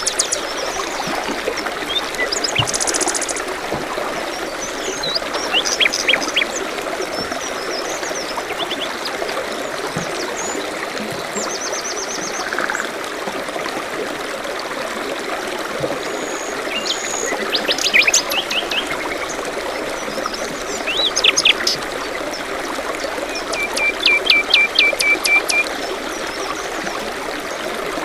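Small stream trickling steadily, with songbirds chirping over it in short scattered calls and a quick run of repeated notes near the end.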